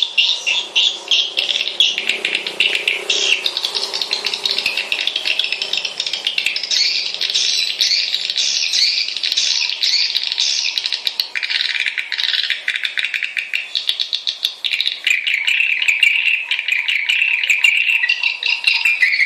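Swiftlet calls in a continuous fast chattering trill of rapid chirps, the kind of lure and roost call played to draw swiftlets into a swiftlet house. The chatter drops to a lower, steadier trill about three quarters of the way through.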